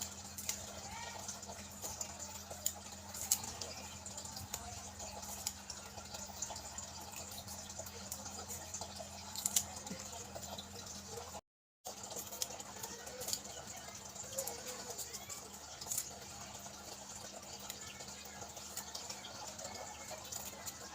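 Faint handling sounds of water spinach being prepared by hand: scattered small clicks and snaps over a steady low hum. The sound cuts out briefly about halfway through.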